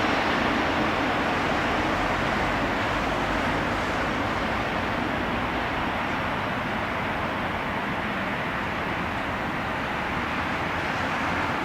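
Steady, broad rumble of a Boeing 777-300ER's jet engines, slowly fading.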